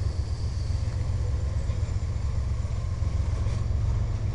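Freight train rolling past close by: its trailing GE ES40DC diesel locomotive goes by first, then boxcars follow, with a steady low rumble.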